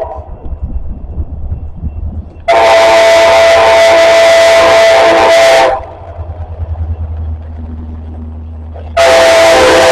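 Locomotive air horn sounding two long blasts, several tones together: one about two and a half seconds in lasting about three seconds, and another starting near the end. A low rumble from the approaching train runs underneath.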